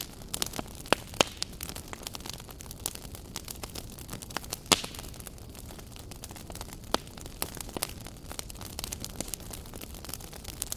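Wood fire burning in a fireplace, crackling and popping at irregular intervals over a steady low hiss, with a sharper pop about five seconds in.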